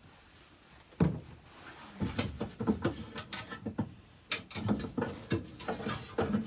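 A sharp knock about a second in, then irregular knocks, clicks and rattles of hand work with tools and metal parts.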